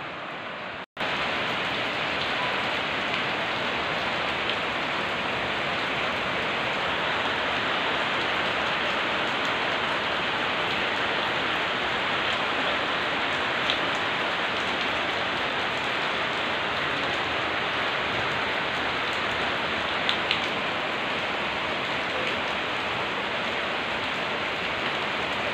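Steady rain falling on wet brick paving: a dense, even hiss of drops, with a few slightly louder single drop ticks. The sound cuts out for an instant about a second in, then carries on at a steady level.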